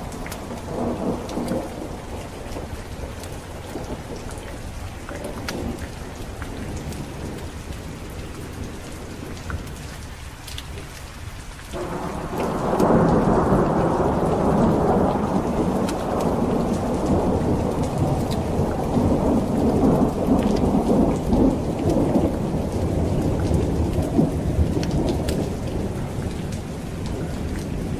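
Steady rain falling through a thunderstorm. A loud roll of thunder breaks in suddenly about twelve seconds in and rumbles on, easing toward the end.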